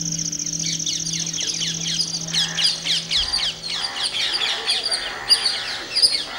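A flock of birds chirping and squawking, with many short, quick calls overlapping and growing denser a couple of seconds in. A steady high buzz stops about two seconds in, and a low hum fades out partway through.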